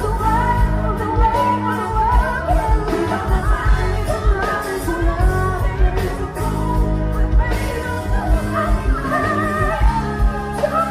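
A woman singing a pop ballad with a band behind her, a steady drum beat and bass, her voice sliding through long held notes and runs.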